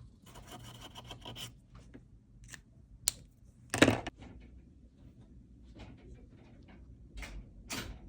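A drawing tool scratching across paper in separate short strokes, the loudest about four seconds in, with a sharp click just before it.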